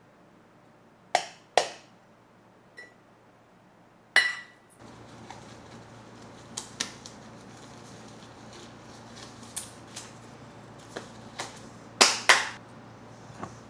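Kitchen utensils and dishes knocking and clinking in sharp separate hits, several in close pairs, one with a short ring about four seconds in. A low steady hum comes in about five seconds in and runs beneath them.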